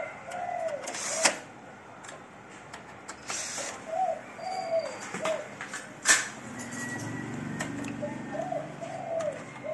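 A bird cooing, a short phrase of low, arched coos repeated three times. A few sharp clicks come in between, the loudest about a second in and about six seconds in.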